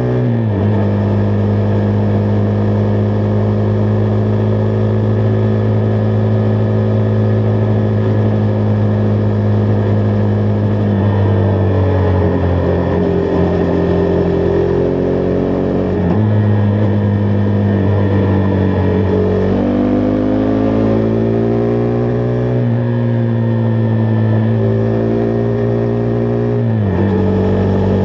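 Single-cylinder engine of a Husqvarna Vitpilen 401 motorcycle under way. The note holds steady, then drops suddenly four times, as at gear changes, and climbs again in between as the bike accelerates.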